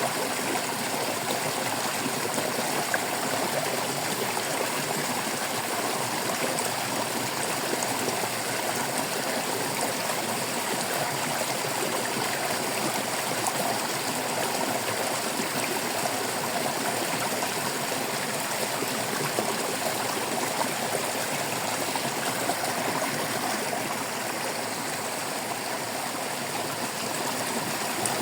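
Flowing stream water babbling and trickling steadily, an even unbroken rush with no pauses.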